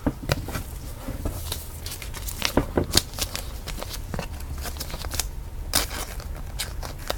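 Trading cards and their packaging being handled: scattered small clicks, ticks and crinkles, with a faint steady hum underneath.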